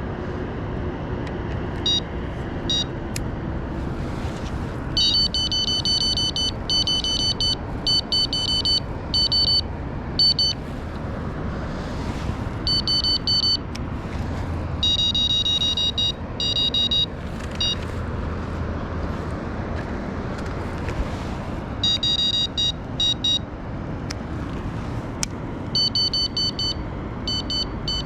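Electronic carp bite alarms beeping in quick runs of short, high tones at two different pitches, coming in clusters every few seconds over a steady background hiss. This is typical of line being tightened to freshly cast rods sitting on their alarms.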